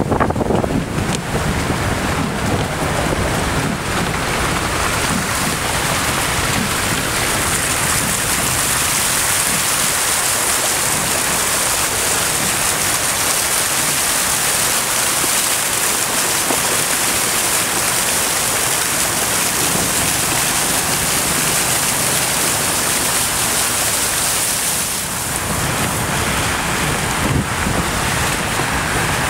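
Winter storm wind and surf on the shore: a loud, steady rushing noise with no distinct breaks. It turns hissier through most of the middle stretch.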